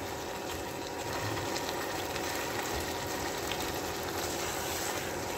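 Chicken and masala gravy sizzling in a pan while being stirred, a steady frying hiss with a faint steady hum underneath.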